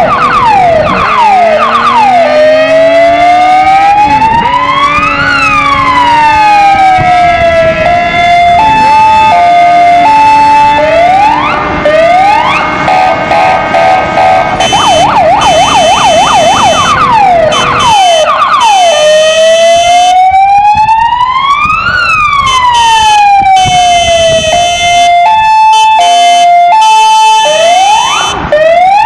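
Kingvox ERP electronic siren cycling through its tones: a fast warble, then a slow wail that rises and falls, a two-note hi-lo and a rapid pulsing, with the pattern repeating about halfway through.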